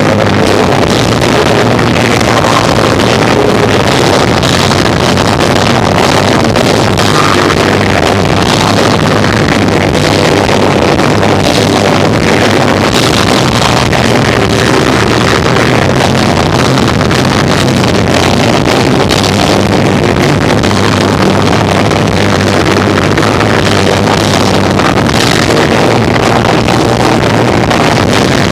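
Live rock band of electric guitar, bass and drums playing, recorded so overloaded and distorted that the music comes through as a dense, steady wall of noise with a droning bass underneath and drum hits poking through.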